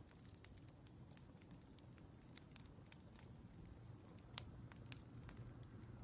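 Faint crackling of burning firewood: scattered irregular pops and snaps over a low steady rumble, with one sharper pop about four seconds in.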